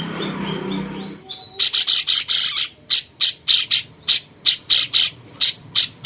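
Cucak cungkok, a bulbul, giving loud harsh notes in quick succession. About a second and a half in they start as a dense cluster, then settle to about three short notes a second.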